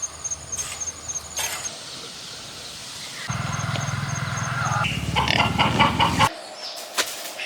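Pigs calling, in several short clips cut together, the loudest calls coming past the middle.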